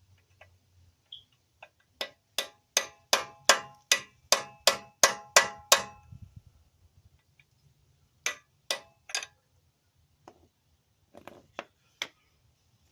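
Hammer driving a chisel against the staked collar of the front CV axle nut to bend it back up: a run of about eleven ringing metal strikes at about three a second, then three more strikes, then a few lighter taps near the end.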